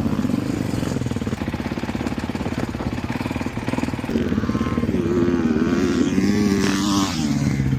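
Kawasaki KX450 four-stroke motocross bike engine running under riding load on a dirt track. The engine note holds steady, climbs about halfway through, wavers with the throttle and drops near the end.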